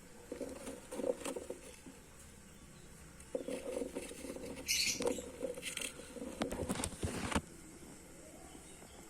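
Cockatiel making soft, irregular scratchy sounds in short bursts, with a couple of brief higher hissy bits midway; it goes quiet about seven seconds in.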